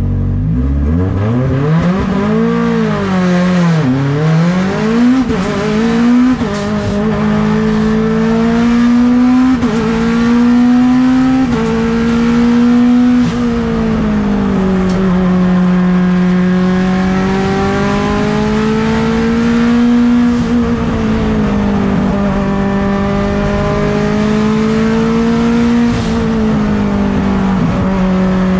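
Mitsubishi Lancer Evolution X race car's turbocharged 4B11 four-cylinder engine, heard onboard at full race effort. It revs up and down sharply in the first few seconds, then pulls with the pitch climbing slowly and dropping suddenly several times, as at gear changes or lifts.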